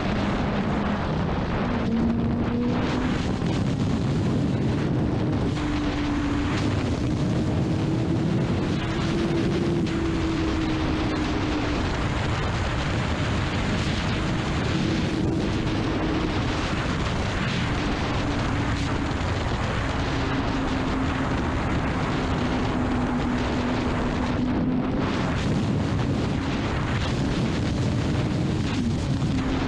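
Honda CBR600RR's inline-four engine running at high cruising revs, its pitch climbing over the first ten seconds and then easing back and holding steady, under heavy wind rush on the microphone.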